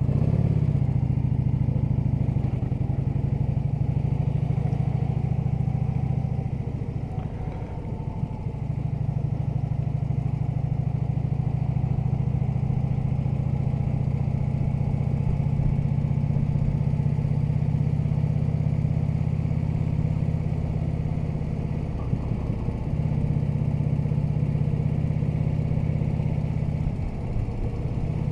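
Harley-Davidson touring motorcycle's V-twin engine running under way. It gets louder sharply at the start, eases off briefly a few seconds in, and its note shifts a few times with the throttle and gears.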